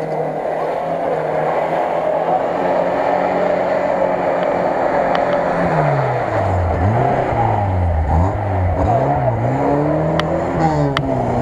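A Lada Niva's four-cylinder engine driving through mud and shallow water. It runs at a steady note for about six seconds, then revs up and down several times. A few sharp clicks come near the end.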